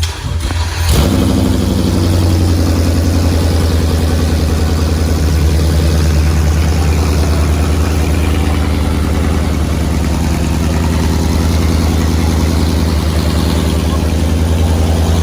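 Ford 5.0 V8 on long-tube headers, fired up about a second in and then idling steadily and loudly.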